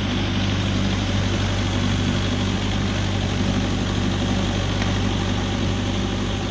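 Mahindra tractor's diesel engine running steadily at a low, even speed.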